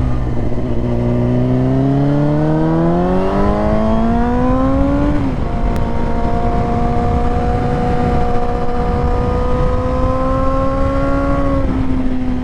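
Motorcycle engine heard while riding, pulling harder with rising pitch for about five seconds, changing gear, then holding an even note at a steady road speed, with wind rushing over the microphone.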